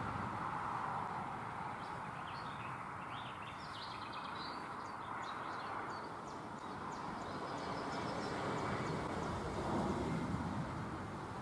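Small birds chirping in quick runs of short high calls from about two seconds in until near the end, over a steady rushing outdoor background noise.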